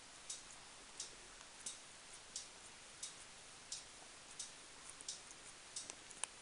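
A cat licking its fur while grooming: a steady run of soft, wet clicks, about three every two seconds, with one sharper click near the end.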